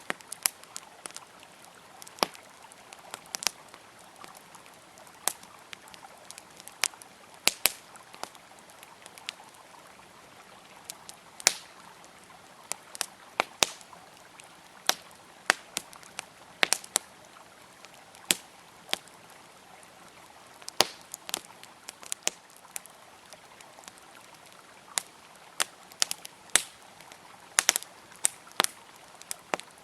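Campfire crackling, with sharp irregular pops and snaps of burning wood over the steady rush of a flowing river.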